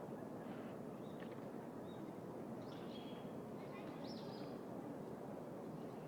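City park ambience: a steady low wash of distant traffic and background noise, with a few short bird chirps about one, three and four seconds in.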